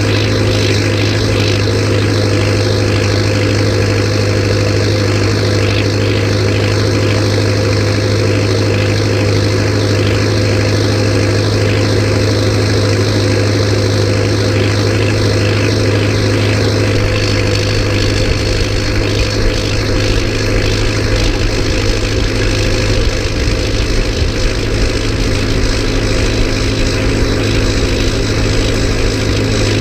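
Massey Ferguson tractor's diesel engine running steadily, its sound shifting slightly about 17 seconds in.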